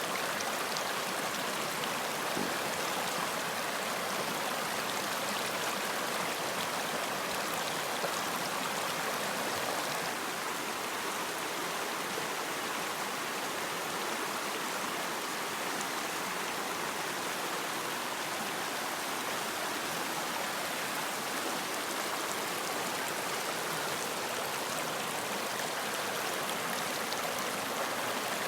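Running water: a stream flowing with a steady, even rush.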